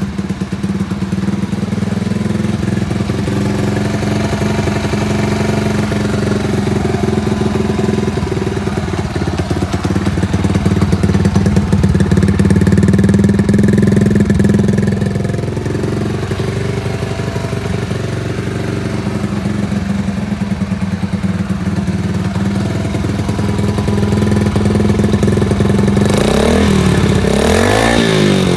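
Honda Chaly CF50's small four-stroke single-cylinder engine idling steadily. Near the end the throttle is blipped, and the revs rise and fall twice.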